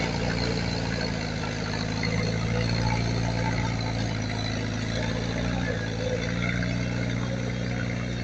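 Heavy earthmoving machine's diesel engine running steadily at a constant pitch.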